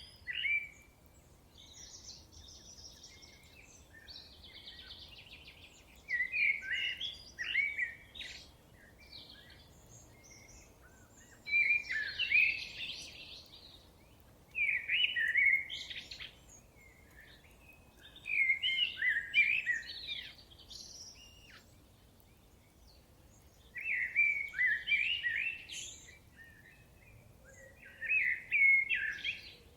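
A thrush singing loud, varied phrases of about one and a half to two seconds each, roughly every three to five seconds, with fainter calls of other birds in the gaps.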